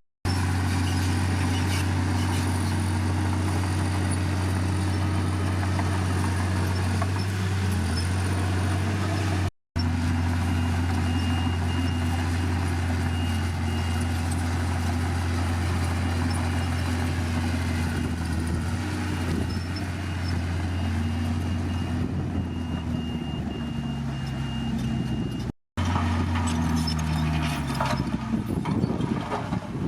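Komatsu D51PX bulldozer's diesel engine running steadily under load, cut by three brief drops to silence; near the end the engine note shifts and becomes less even.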